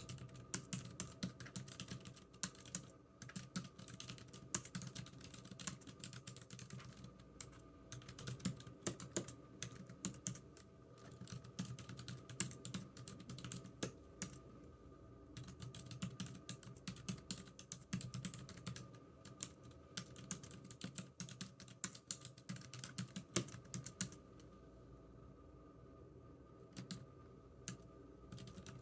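Typing on a computer keyboard: quick runs of key clicks in bursts, broken by short pauses, the longest near the end.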